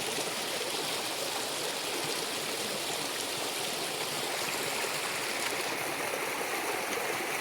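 A stream's water rushing and burbling steadily over rocks.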